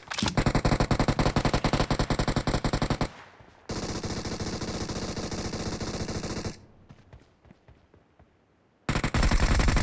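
Video game automatic gunfire: a fast even stream of shots, about eleven a second, for about three seconds. It gives way to a steadier hissing stretch of fire lasting about three seconds, then a gap of about two seconds with a few faint clicks. Rapid fire starts again near the end.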